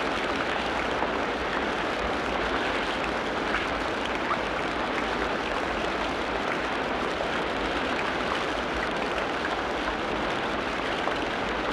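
Steady rushing sound of running water in a forest, even and unbroken throughout.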